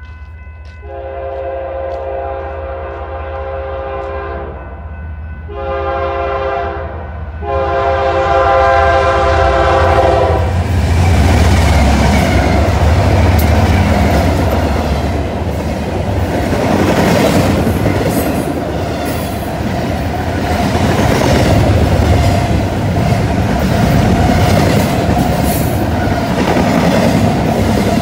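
BNSF freight locomotive air horn sounding a multi-note chord in three blasts: long, short, long. Then the lead diesel locomotives pass close with a loud engine rumble, followed by double-stack container cars clattering over the rails.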